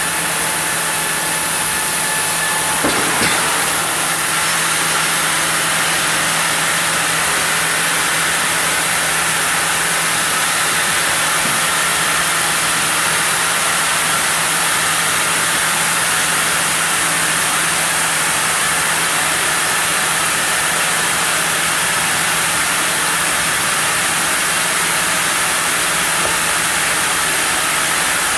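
Sawmill saw running steadily: a constant mechanical hum under a dense hiss, with one brief knock about three seconds in.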